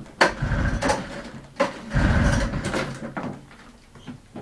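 Two hard pulls on the recoil starter of a 1974 Arctic Cat Panther 340 snowmobile, the two-stroke engine cranking briefly each time without catching, on a cold start after sitting for weeks.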